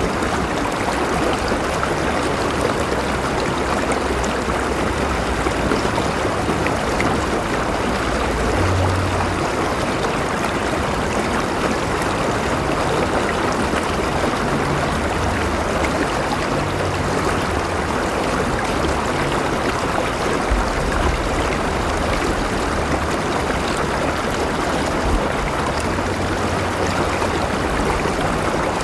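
River water flowing steadily, an even rushing sound, with brief low rumbles now and then.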